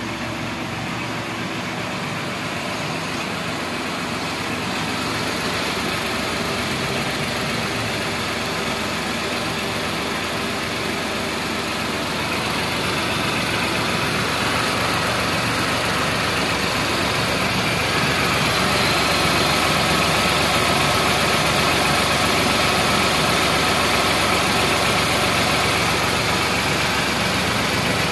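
Tata Punch's 1.2-litre three-cylinder petrol engine idling steadily. It grows gradually louder, close up over the open engine bay.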